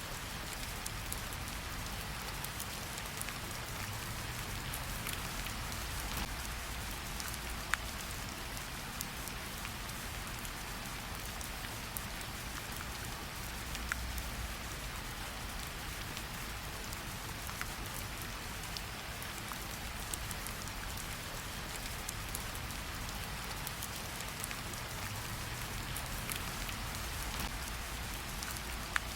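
Steady light rain pattering on tree leaves, with scattered individual drops dripping off them; a few louder single drops stand out about eight, fourteen and twenty-nine seconds in.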